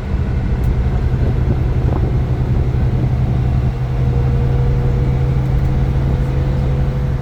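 Iveco Crossway LE 12 bus's Cursor 9 six-cylinder diesel engine running steadily, a low, even drone. A thin, faint whine joins it about four seconds in.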